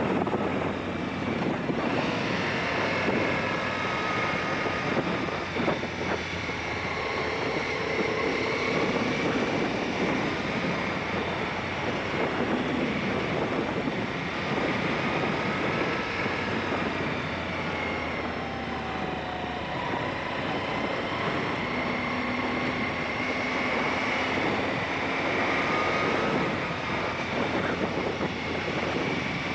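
Aprilia Shiver 750's V-twin engine running on the move, its pitch rising and falling as the speed changes, under a steady rush of wind noise on the camera microphone.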